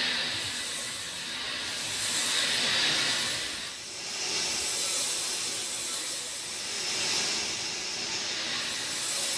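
Rain falling steadily: an even hiss that swells and eases every two to three seconds.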